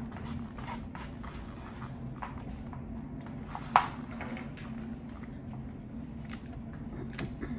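A person chewing Mongolian beef and rice, with soft mouth sounds and small irregular clicks, and one sharp click about four seconds in.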